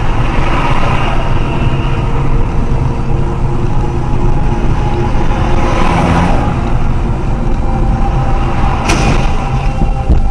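Loud steady vehicle engine and road noise, with a short sharp noise about nine seconds in.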